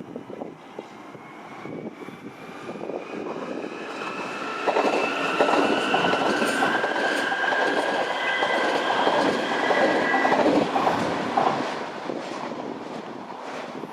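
A train passing through the station. Its noise builds over the first few seconds and peaks through the middle with wheel clatter and steady high-pitched tones, then fades near the end.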